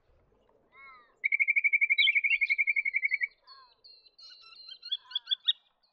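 Honeyeater calling: a few short falling notes, then a loud, rapid, even trill of about ten notes a second lasting about two seconds, followed by a run of quicker, higher chirps.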